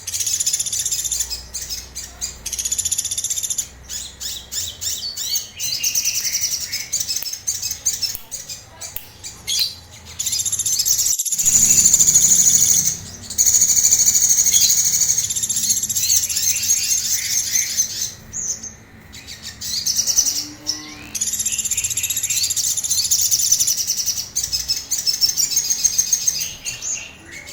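A sogon songbird singing in rapid, high-pitched chattering phrases with brief pauses between them. The uploader calls this its agitated 'emosi' song with rough rapid bursts ('tembakan kasar').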